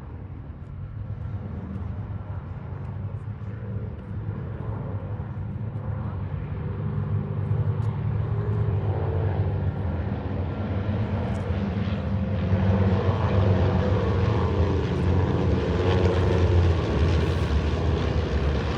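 Several airplanes' engines droning overhead as the formation flies in, the sound growing steadily louder as they approach.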